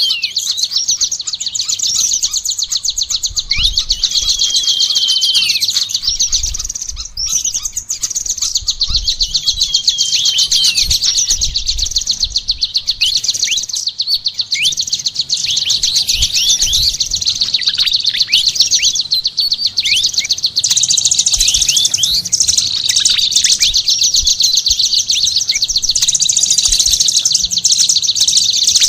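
Caged songbirds singing without pause: a fast, dense, high chattering trill with many quick downward-sliding whistled notes over it, several birds mixed together.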